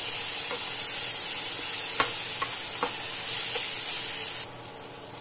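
Onions and ginger-garlic paste sizzling in hot oil in a pan while a spoon stirs them, with a few light clicks of the spoon against the pan. The sizzle cuts off suddenly near the end.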